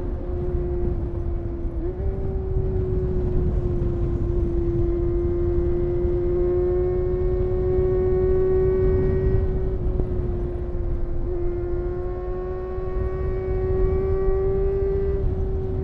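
Honda CBR250RR MC22's inline-four engine running under way with a high-pitched note that holds nearly steady, dipping briefly in pitch about two seconds in and again about ten seconds in. Wind rushes low underneath.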